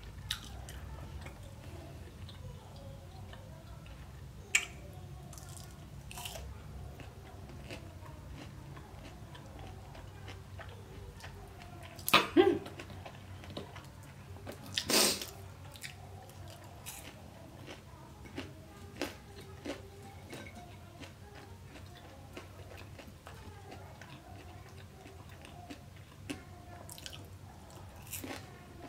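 Close-up eating sounds: chewing and biting of a bacon burger and potato tots, with soft wet mouth clicks throughout and a few louder sharp bites, the loudest about twelve and fifteen seconds in.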